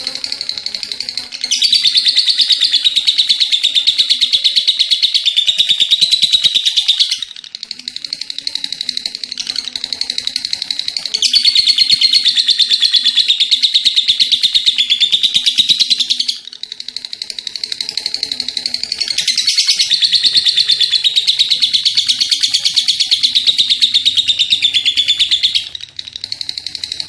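Lovebird singing its long 'ngekek' chatter: a rapid, high rattling trill held for five or six seconds at a time, three times over, with quieter chattering in between.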